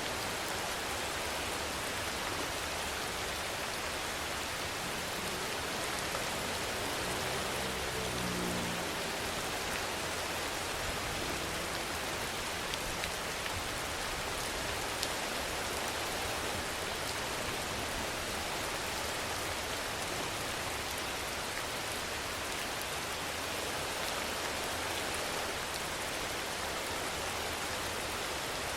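Steady rainfall, an even hiss of rain on surfaces with the odd distinct drop tick. About seven seconds in, a faint low pitched sound wavers briefly for a second or two under the rain.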